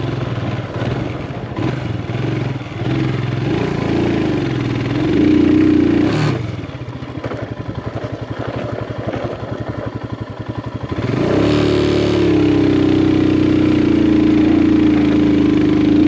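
Motorcycle engine climbing a steep track, its revs rising and falling, dropping low and uneven about six seconds in, then revving up about eleven seconds in and holding high.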